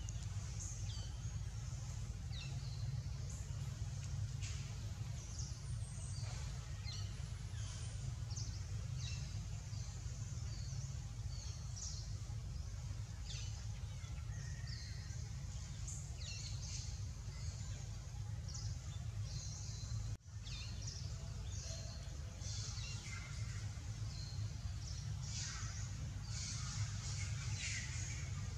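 Outdoor ambience of birds chirping and calling in short, scattered notes over a steady low rumble, with a brief dropout about twenty seconds in.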